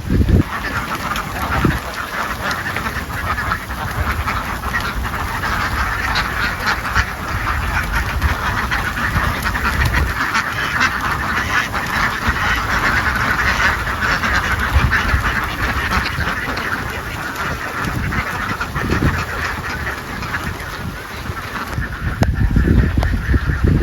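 A large flock of ducks quacking all at once in a dense, continuous din, with occasional low thumps underneath that are loudest near the end.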